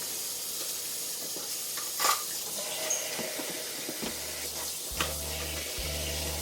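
Kitchen cleaning sounds: a steady hiss with a few sharp knocks and clinks. Background music with a steady low line comes back about five seconds in.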